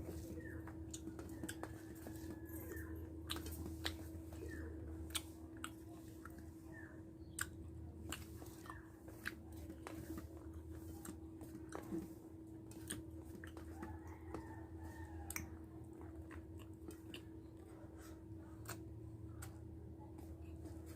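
Close-miked chewing and mouth smacking of a person eating rice and dried fish, with many sharp wet clicks scattered through, over a steady low hum.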